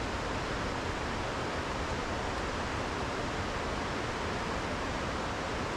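Steady rushing of water from a small waterfall and stream, an even hiss with no breaks.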